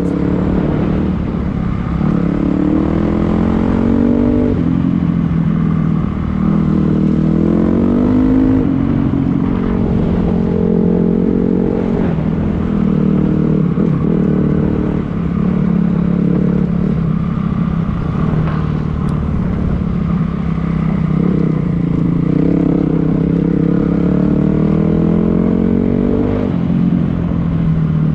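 Dirt bike engine under way, its pitch climbing and then dropping suddenly several times as the rider shifts up through the gears.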